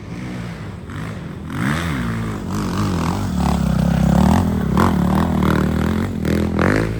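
Motocross bike engine revving, its pitch rising and falling repeatedly and getting louder from about a second and a half in.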